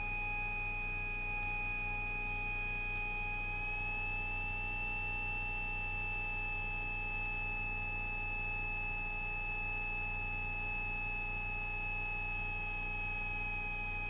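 A steady high-pitched electrical whine with overtones, drifting slightly in pitch, over a low hum, carried in the Cessna 172S's intercom audio.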